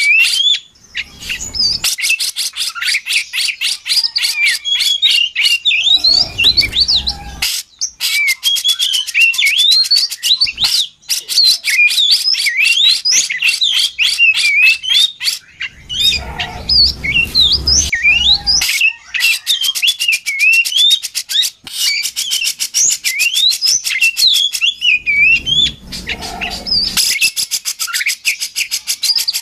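Oriental magpie-robin (kacer) singing a continuous, rapid, varied song of whistled notes that sweep up and down, mixed with fast clicky chattering. A few brief low rumbles sound underneath.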